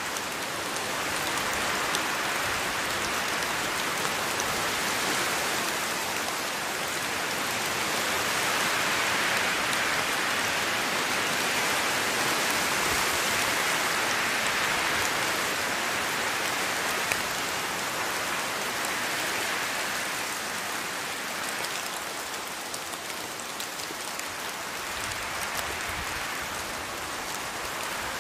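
Steady rainfall with scattered individual drops, rising a little in intensity midway and easing slightly later.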